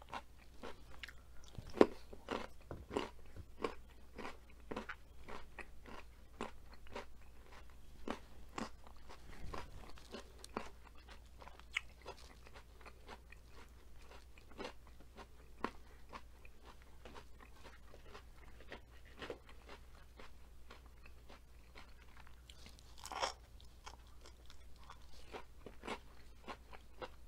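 Close-miked crunching and chewing of crisp food, breaded fried asparagus among it: a run of short crisp bites, thickest in the first ten seconds, with one loud crunch about two seconds in.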